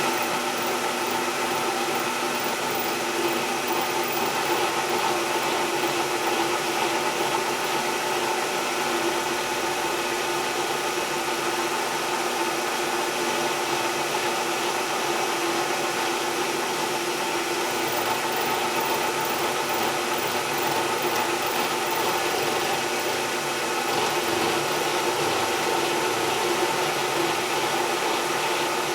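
Machine tool running steadily as a small cutter mills a slot into a boring head's body, a constant whirring hiss with a fixed hum of motor tones.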